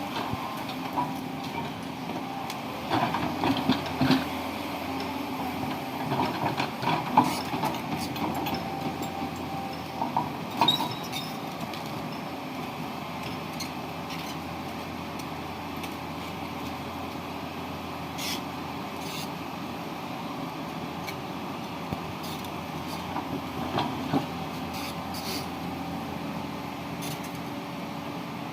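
Tata Hitachi 200 excavator's diesel engine running steadily, with irregular metallic clanks and knocks from the machine working, mostly in the first ten seconds and again a little before the end.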